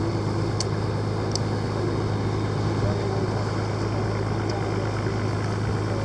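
Boat's engine running steadily with a low drone, heard on board.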